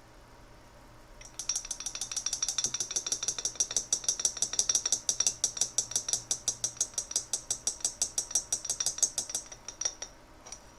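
Small jar of model paint being mixed by hand: a rapid, even clicking, about nine clicks a second, that starts about a second in and stops near the end.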